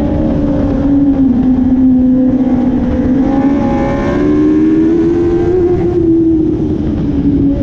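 Dwarf race car's motorcycle engine running hard at racing revs, its pitch rising and falling as it accelerates and backs off. A second engine's higher tone comes in and fades away around the middle.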